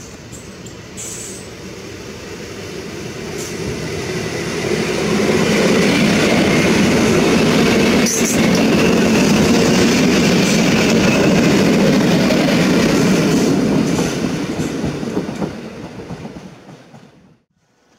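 PKP class EN57 electric multiple unit running past close by: the rolling noise of its wheels on the rails grows louder, holds at a steady peak while the cars pass, with a sharp click about 8 seconds in, then fades away and cuts off just before the end.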